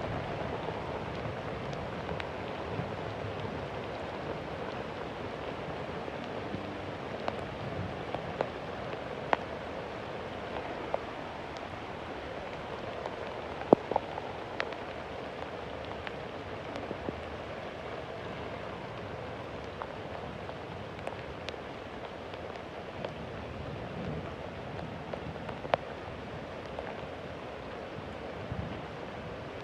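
Heavy rain falling steadily, with occasional louder single drops striking a surface, the sharpest about halfway through and again near the end.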